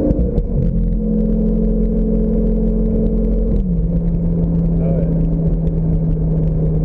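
Sports car engine heard from the open cabin, running at steady revs, then stepping down to a lower steady note about three and a half seconds in.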